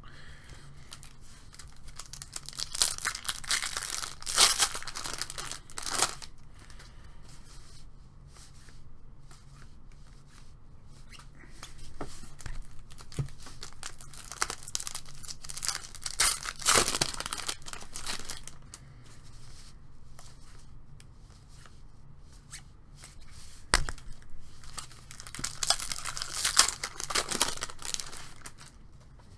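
Trading card pack wrapper being torn open and crinkled, in three bouts with quieter card handling between.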